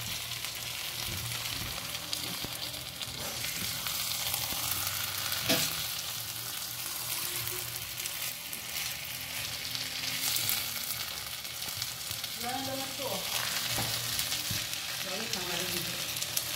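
Sisig (chopped pork and liver with onion and chili) sizzling on high heat in an Altenbach nonstick frying pan while a slotted spatula stirs and turns it, scraping across the pan in short, irregular strokes over a steady hiss of frying.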